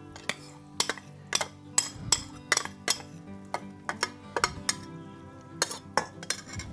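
A utensil clinking and knocking against a pot or pan in sharp, irregular strikes while Alfredo sauce is poured and scraped into the pasta. Background music plays under it.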